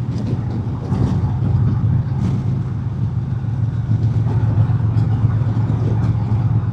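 2025 Harley-Davidson Road King Special's Milwaukee-Eight V-twin running at a steady cruise, a constant low drone, picked up by a helmet microphone.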